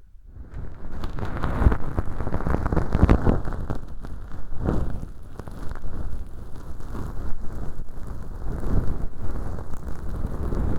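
Close-miked scratchy rustling of a bonten feather earpick brushing inside a transparent tube ear model packed with dry, flaky fake earwax. It swells in over the first second and then goes on in uneven surges.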